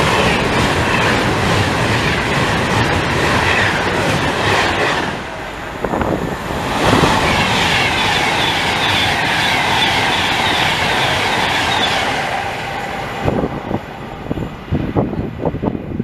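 A train passing close through a station, a loud steady rush of wheels on the rails that dips briefly about five seconds in, swells again, then fades over the last few seconds.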